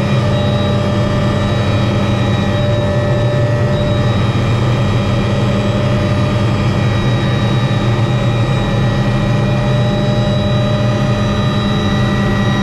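Helicopter running steadily, heard from the cockpit: a constant engine hum with a high whine above it, unchanging throughout.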